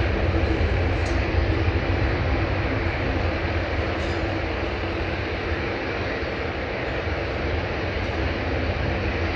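Jet airliner engine noise, a loud, steady rumble with a roar that eases slightly over the first few seconds and then holds.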